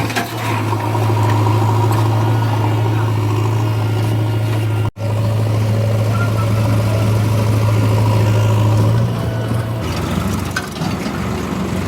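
Heavy diesel engine running with a steady deep hum, cut off for an instant about halfway through, then turning rougher and less even near the end.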